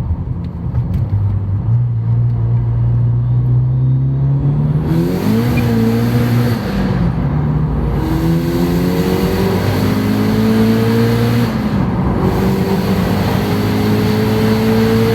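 Turbocharged 1.8-litre 20-valve four-cylinder engine running under load on a chassis dynamometer. It holds steady revs for the first few seconds, then the revs climb, fall back sharply twice and climb steadily again each time.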